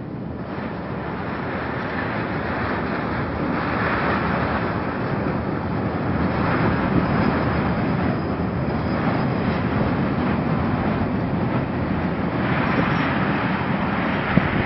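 Freight train of tank wagons rolling past: a steady rumble and rattle of wheels on the rails that grows a little louder over the first few seconds.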